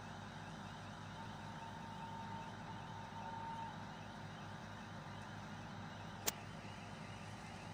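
Faint steady rumble of a distant approaching electric freight train. A thin high tone sounds for about two seconds near the start, and there is one sharp click about six seconds in.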